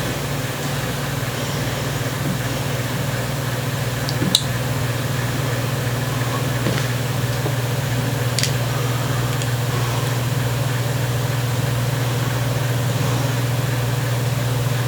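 Steady low hum, with a couple of faint clicks about four and eight seconds in.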